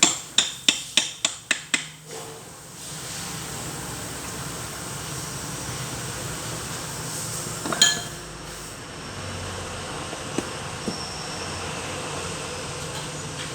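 A run of sharp metallic clinks, about nine in two seconds, coming quicker and fainter, then one more ringing clank about eight seconds in, over a steady hum.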